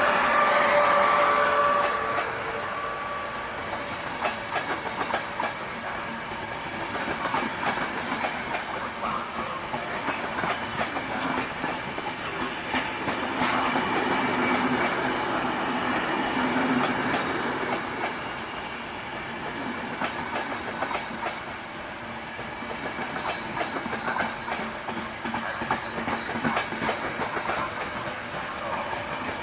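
A train passing through a station, its wheels clattering over rail joints and points. A steady whine is heard for the first few seconds, and the clatter swells and eases as the cars go by.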